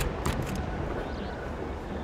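Aerial fireworks: a few sharp crackling pops in the first half second, trailing into a steady low rumble.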